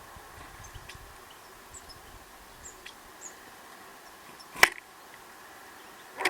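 A few brief, high chirps from small birds over a steady faint hum, with a sharp click about four and a half seconds in and a louder knock at the very end.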